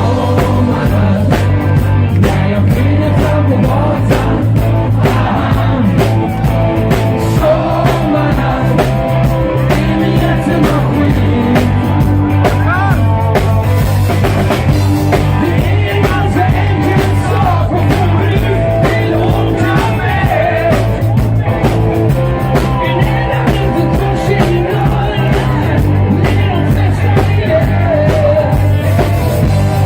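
Live band music: a full band plays with a steady bass line and drums, and a wavering melody line on top.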